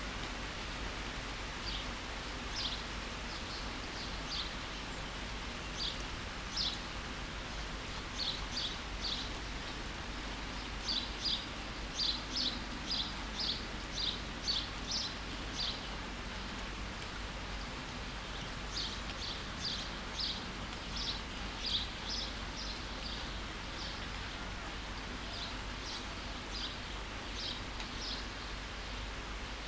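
Steady rain falling, with a songbird chirping over it in quick runs of short, high notes that come in bouts of several seconds and pause between them.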